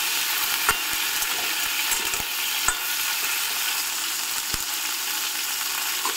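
Cauliflower florets sizzling in hot mustard oil in a kadai while being stirred, with a metal spatula clicking against the pan a few times.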